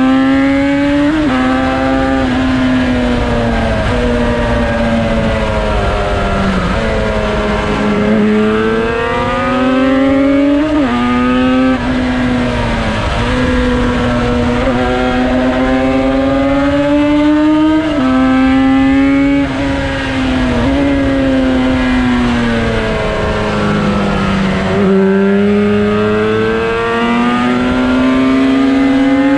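Two-stroke parallel-twin engine of a Cagiva Mito fitted with a Yamaha RD350 motor, run hard at racing speed. Its pitch climbs and drops sharply again and again as it shifts up through the gears, with several longer falls in pitch as it slows.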